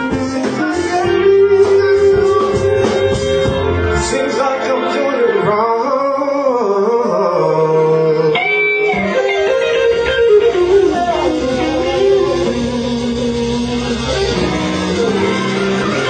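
Live blues band playing, led by an electric guitar whose notes bend up and down.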